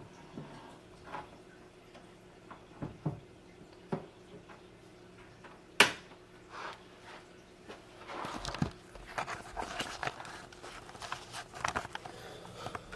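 Handling noises: scattered small clicks, knocks and rustling, with one sharp click about six seconds in and a denser run of rustling and clicks in the second half, over a faint steady hum.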